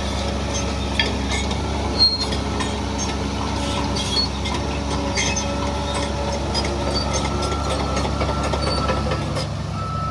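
Shantui DH17C3 bulldozer's diesel engine running steadily under work, with scattered metallic clicks and knocks and a sharper knock about two seconds in.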